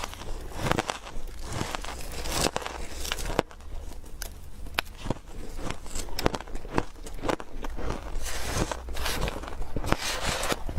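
Refrozen powdery ice being chewed close up: a steady, irregular run of soft crunches and crackles, with a few sharper snaps.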